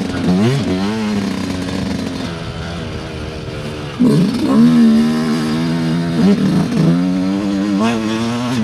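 Yamaha YZ125 two-stroke dirt bike engine revving up and down under riding. The revs settle lower and quieter for a couple of seconds in the middle, then the throttle opens sharply about four seconds in and the revs rise and fall again.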